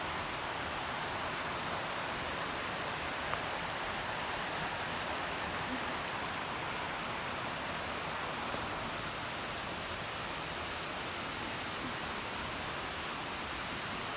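Waterfall cascading down a rock face into a pool, a steady even rush of water.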